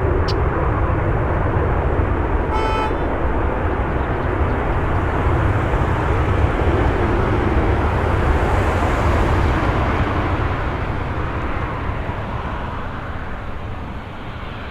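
Jet airliner landing in strong wind: a dense, steady engine roar mixed with wind rushing and rumbling over the microphone, slowly fading near the end. A short horn-like tone sounds about three seconds in.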